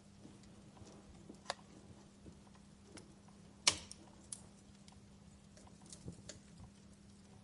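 Wood fire crackling: scattered sharp pops and ticks, the loudest a single snap about halfway through, over a faint steady low hum.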